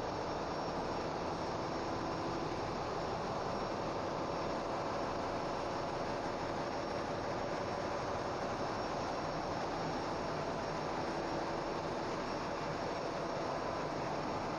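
Steady, dense machinery drone of a very large crude carrier's engine room, with faint steady tones running through it and no let-up.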